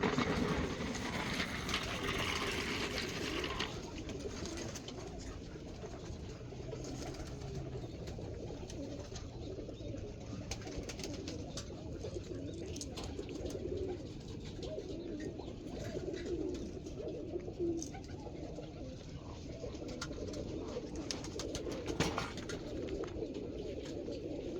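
Roller pigeons cooing steadily, many overlapping coos at once. A rustling noise sounds for the first few seconds, and faint scattered clicks run through.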